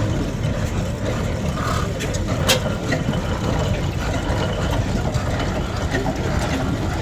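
An engine running steadily, its sound strongest in the low range, with a sharp click about two and a half seconds in.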